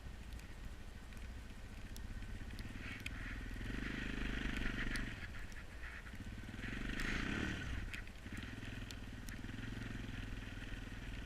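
Car engine running steadily, revving up twice, about four and seven seconds in, with a rising hiss each time as the Mustang's wheels spin on ice without gaining traction.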